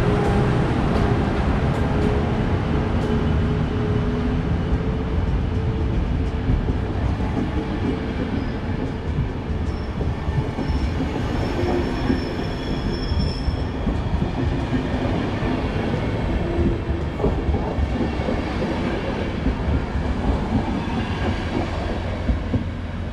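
Electric locomotive and passenger carriages of a departing train rolling past at low speed. Steady tones from the locomotive fade in the first few seconds. Then the carriages' wheels click over rail joints, with a brief high wheel squeal about halfway through, and the sound tapers off as the last car pulls away near the end.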